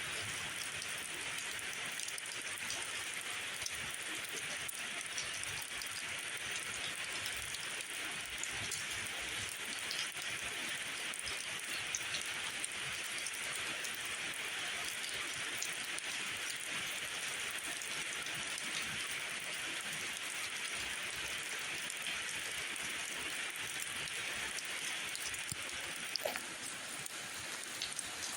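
Steady rainfall, an even hiss with scattered individual drop ticks.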